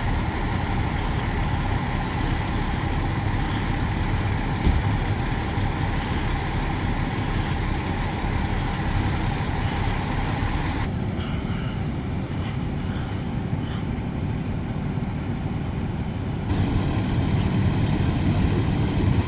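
Large diesel fire truck engines running steadily at idle, a continuous low rumble. The higher hiss above it drops away for a few seconds in the middle.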